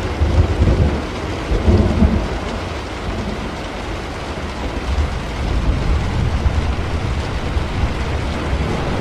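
Steady heavy rain with thunder: a deep rolling rumble breaks in at the start, swells twice in the first two seconds, then keeps rumbling low under the rain.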